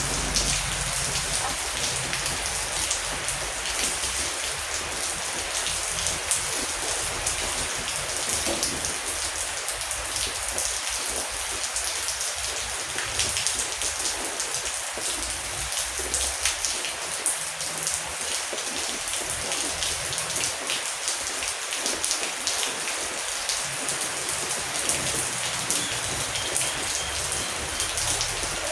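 Heavy rain falling steadily, with many individual drops pattering on a surface over a constant hiss.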